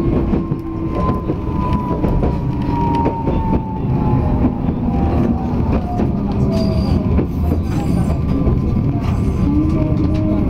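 Running noise inside a Tokyu Setagaya Line tram car: a steady rumble of wheels on rails with scattered clicks, and an electric motor whine sliding slowly down in pitch as the car slows. Another tone rises and wavers near the end.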